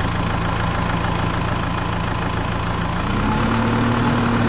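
Tractor engine sound running steadily, its pitch stepping up slightly about three seconds in as if given a little more throttle.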